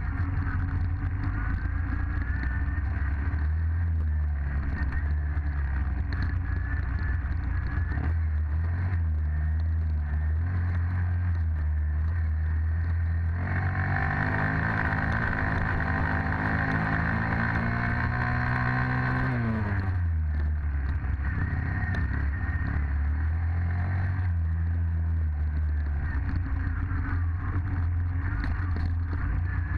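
Dirt bike engine running at low revs, then revving higher for several seconds about halfway through before the pitch falls back down.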